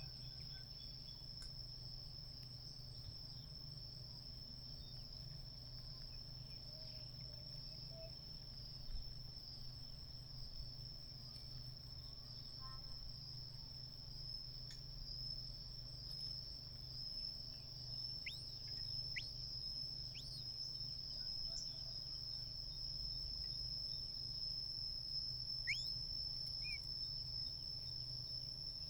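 Steady, high-pitched insect trill, cricket-like, running without a break. A few short thin chirps come in during the second half.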